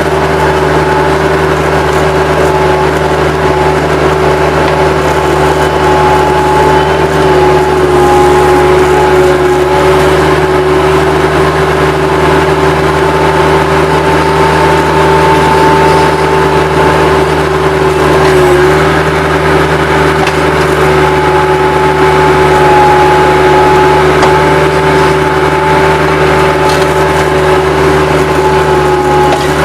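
Bobcat 763 skid-steer loader's diesel engine running steadily, with a steady whine over the engine note.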